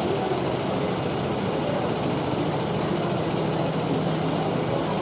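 A workshop machine running steadily, with a dense high-pitched hiss over a lower rumble.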